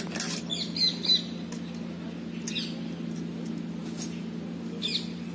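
Short high bird chirps, a quick cluster in the first second and single ones about halfway and near the end, over a steady low hum.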